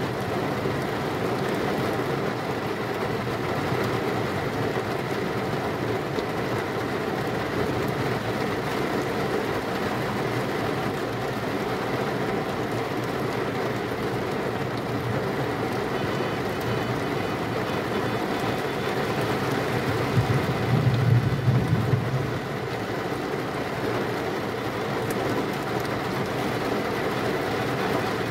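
Steady heavy rain, with a short low rumble of thunder about twenty seconds in.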